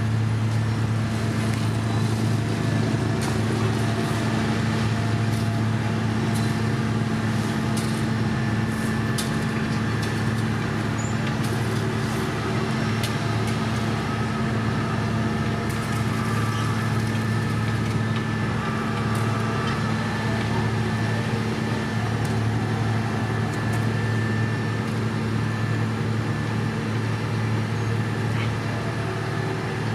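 Diesel engine of heavy road-construction machinery running steadily at a constant speed, with a low, even hum and occasional faint clicks.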